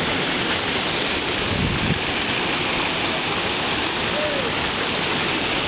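Loud, steady rushing water, an unbroken wash of noise.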